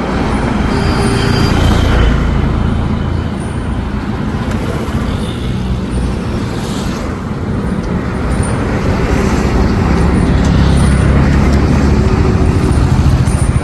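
A heavy road vehicle's engine running steadily with road and traffic noise, with a faint short high tone about a second in.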